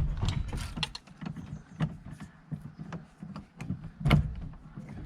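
1955 Mercedes-Benz 220a's starter motor cranking the engine, with uneven clunks and knocks. The engine turns over without catching; its fuel system is believed drained.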